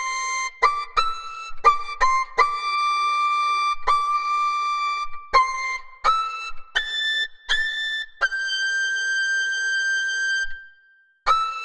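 A high, whistle-like wind instrument playing a slow melody one note at a time, each note starting sharply. A long note is held for about two seconds and fades out, and after a short gap the tune starts again near the end.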